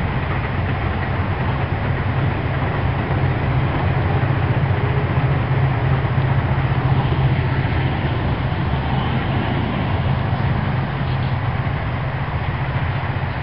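Diesel freight train passing: the locomotives' engines make a steady low drone, over the continuous rumble of the container wagons rolling by.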